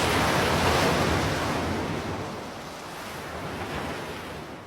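Ocean waves and rushing sea water, a steady wash with no distinct splashes, easing off after about two seconds and fading out near the end.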